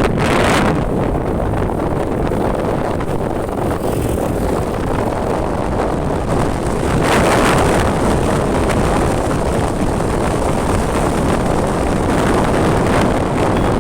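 Wind buffeting the microphone on a moving motorcycle, with the engine and road noise under it; the rush swells briefly about half a second in and again around seven seconds in.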